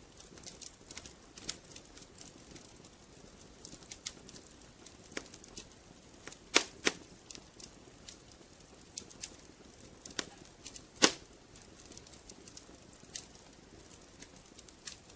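Fireplace fire crackling: irregular sharp snaps and pops over a soft hiss, with two louder pops about six and a half and eleven seconds in.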